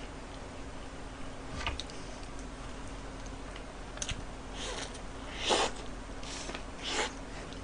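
Bites and chewing of a lettuce-topped burger: a handful of short, soft crunches, the loudest about five and a half seconds in, over a steady low hum.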